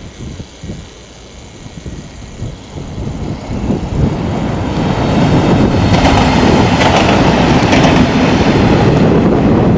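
Siemens Desiro diesel multiple unit approaching and passing close by, its engine and wheels on the rails growing louder from about three seconds in and staying loud, with a few wheel clacks over rail joints as it goes by.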